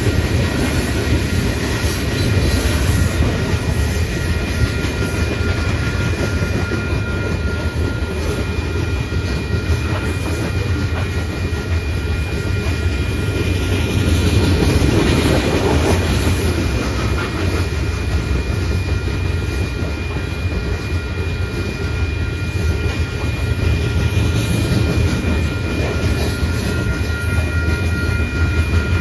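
Freight train of loaded coal cars rolling past close by: a steady low rumble of wheels on rail with clattering over the joints, swelling louder about halfway through.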